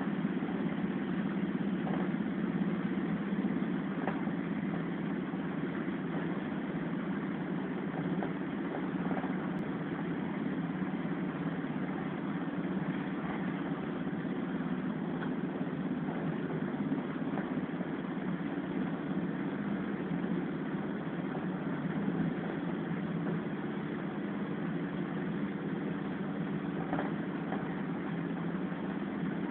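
Passenger train running, heard from inside the carriage: a steady low rumble with a few faint clicks here and there.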